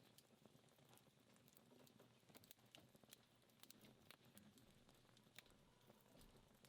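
Faint wood fire burning low and dying down, with scattered, irregular small crackles and pops of the embers.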